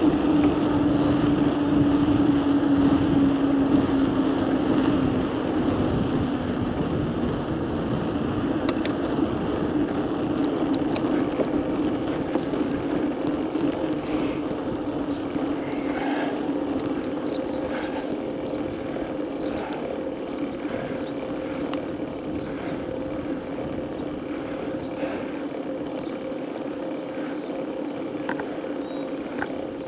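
Steady rushing noise of a bicycle ride along a road, wind on the microphone, with a steady hum underneath and a few scattered clicks in the middle.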